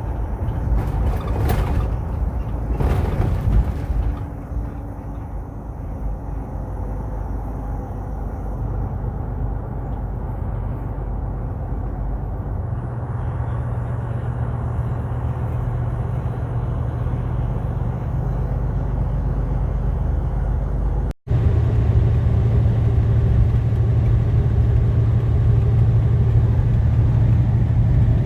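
Steady low rumble of a semi truck's engine and road noise heard inside the cab while driving. The sound drops out for an instant about 21 seconds in and comes back as a steadier low drone.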